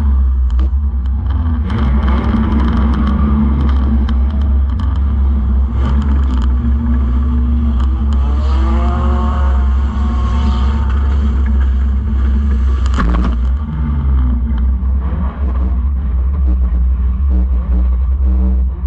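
Banger-racing car engine running, heard from inside the gutted car: a heavy low rumble with loose metal rattling and knocking, the engine revving up and back down midway. There is a single sharp bang about two-thirds of the way through.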